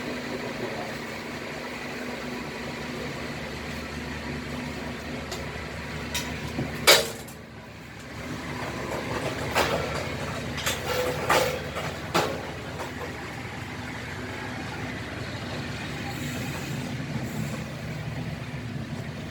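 Matarmaja passenger train running along the track with a steady rumble, its wheels giving a few sharp clacks over the rail, the loudest about seven seconds in and three or four more over the next five seconds.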